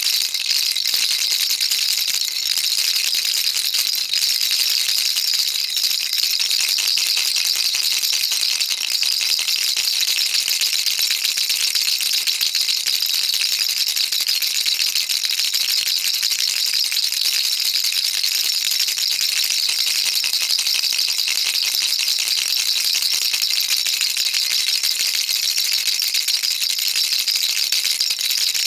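Baby rattle shaken steadily and quickly, a dense, even, high-pitched rattling of small beads inside it.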